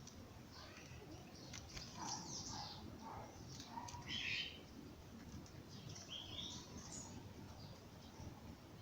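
Several birds singing in a dawn chorus: short chirps and trilled phrases from more than one bird, scattered over a low background rumble, loudest about two and four seconds in.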